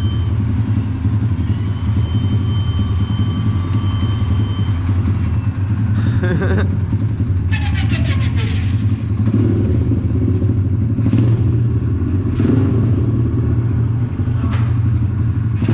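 Small 150cc petrol dirt bike engine idling steadily, a low even running note.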